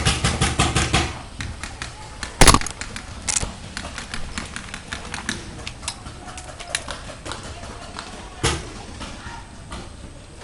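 Paintball marker fired close by in a rapid string of shots that stops about a second in, followed by scattered single sharp pops of paintball shots and hits, the loudest about two and a half seconds in and another near the end.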